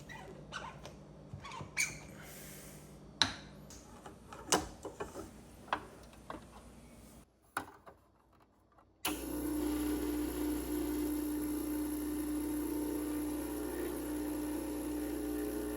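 Clicks and knocks of handling an espresso machine and its portafilter. Then, about nine seconds in, the Gaggia Classic's vibratory pump starts and runs with a steady buzzing hum as it pulls a shot.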